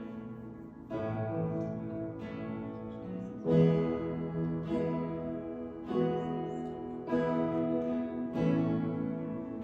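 Guitar strumming ringing chords in an instrumental stretch of a live song, with a new chord struck every second or so and no singing.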